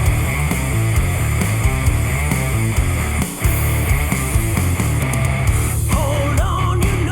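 Loud rock music with distorted guitars, bass and drums on a steady beat, played back through Bowers & Wilkins PX7 wireless headphones. The music dips briefly about three seconds in, and a wavering melody line enters about six seconds in.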